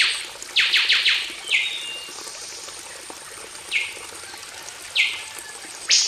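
A songbird repeating sharp, downward-sweeping whistled notes: a quick run of four near the start, then single notes spaced out after. Underneath is a faint steady wash of running water.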